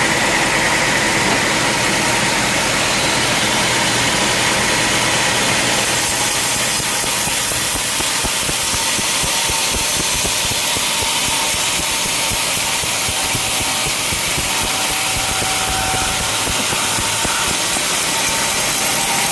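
Sawmill machinery running steadily, a continuous engine-like noise that grows a little brighter about six seconds in.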